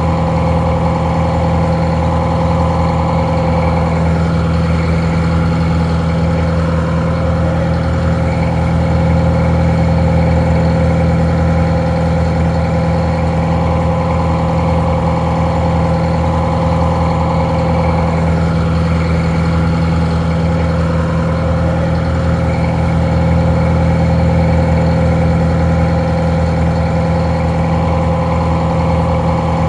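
Detroit Diesel 4-71 two-stroke diesel engine idling steadily, a constant even drone with a strong low hum, sounding a little muffled.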